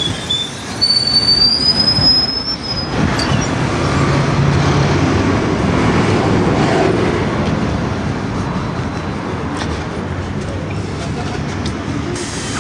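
PAZ-422320-04 Citymax 9 city bus running, heard from on board: a steady rumble and road noise, with a high squeal rising slightly in pitch for about two seconds near the start.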